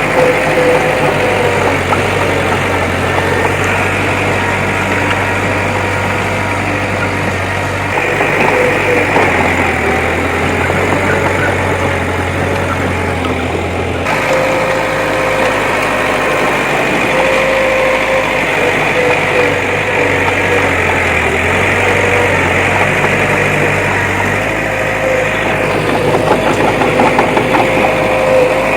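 Diesel engine of a heavy earthmoving machine running steadily, its low tone shifting a few times.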